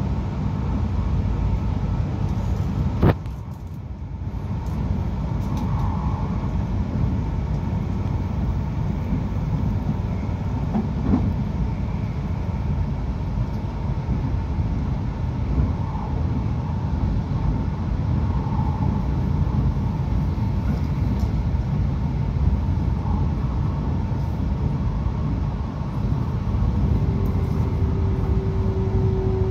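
Akita Shinkansen Komachi train running at speed, heard from inside the passenger cabin: a steady low rumble of wheels on rail. A single sharp knock about three seconds in, after which the noise briefly drops, and a faint steady tone comes in near the end.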